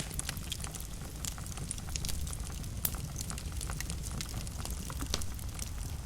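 Wood fire burning in a fireplace: a steady low rumble with frequent sharp crackles and pops scattered irregularly throughout, a few louder pops standing out.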